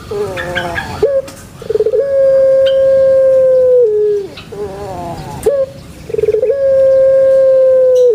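Puter pelung (Streptopelia risoria) dove calling twice. Each call opens with a short rolling stutter, holds one long steady note for about two seconds, then drops into lower, wavering, falling notes.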